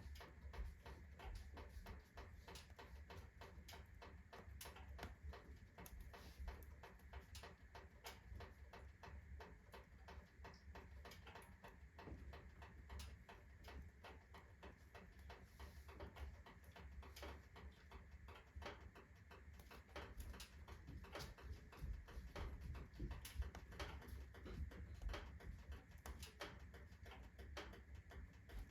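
Wood fire in a stove crackling faintly: a rotten, fungus-decayed log burning on hot embers, giving irregular small clicks and pops, several a second, over a low steady rumble.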